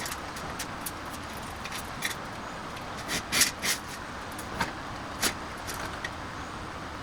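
Scattered light clicks and clatters of small hard objects, with a cluster of louder ones about three seconds in, over a steady background noise.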